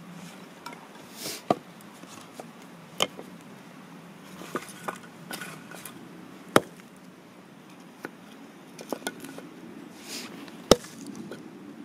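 Axe strikes on firewood: four sharp knocks a few seconds apart, with smaller knocks and clicks between.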